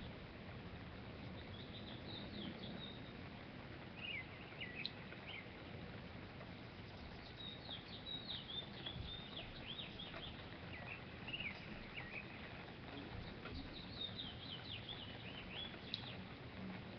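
Songbirds singing outdoors: several bursts of quick, high chirping phrases, about two seconds in, around four to five seconds, a long run from about seven to twelve seconds and again near the end, over a steady background hiss.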